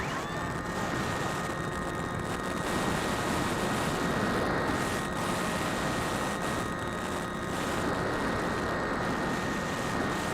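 Phantom quadcopter's motors and propellers whining in flight, heard through a small camera mounted on the drone, with wind rushing over it. The whine rises in pitch right at the start, then holds steady.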